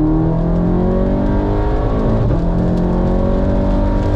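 Audi 8Y's turbocharged engine, fitted with an aftermarket intake, pulling hard under full throttle, heard from inside the cabin: the revs climb steadily, a quick upshift breaks the sound a little over two seconds in, and the revs climb again.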